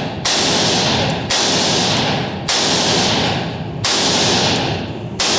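Five single gunshots from a 300 Blackout firearm, fired slowly about a second and a quarter apart, each followed by a long echoing decay.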